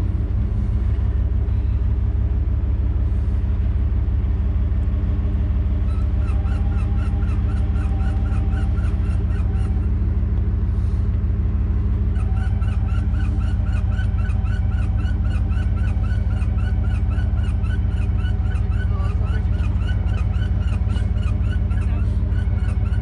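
Truck engine idling steadily, with a fast run of high, repeated squeaking chirps over it from about six seconds in, breaking off briefly around ten seconds and starting again about two seconds later.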